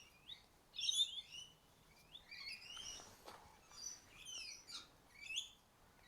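Faint birdsong: a string of short, quick chirping phrases repeated every half second or so.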